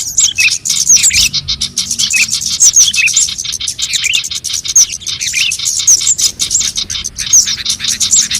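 Scarlet-headed flowerpecker (cabe jawa) lure calls: a dense, unbroken stream of short, high, thin chirps mixed with rapid sharp ticks.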